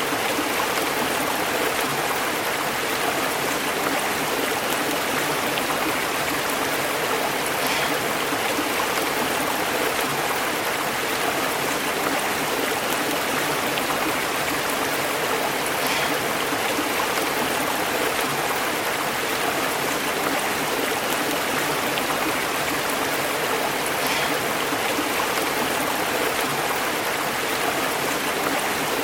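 Stream water burbling and bubbling over rocks in a steady, unbroken rush.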